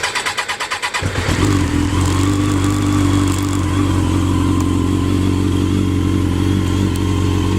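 1995 Suzuki RF900's inline-four engine cold-started on choke: the starter cranks with quick pulses for about a second, then the engine catches and settles into a steady idle.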